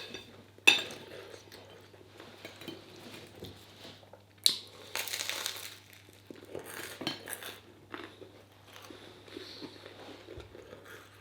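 Cutlery clicking and scraping against a plate, with chewing, as someone eats a meal. Sharp clinks come about a second in and again around four and a half seconds, with a short scrape just after, over a faint steady low hum.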